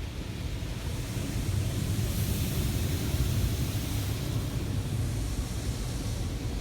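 Automatic car wash spraying water over the car, heard from inside the cabin as a steady rushing hiss over a low rumble. It grows louder about a second in, with the hiss strongest from about two to four seconds in.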